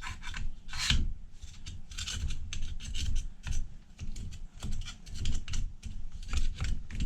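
Caked grime being scraped by hand off the housing of an old Ford 5.0 starter motor: a run of short, irregular scraping strokes.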